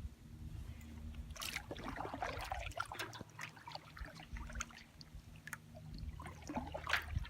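Water trickling and dripping around a canoe on the move, with scattered light knocks and taps on the hull and a sharper knock near the end.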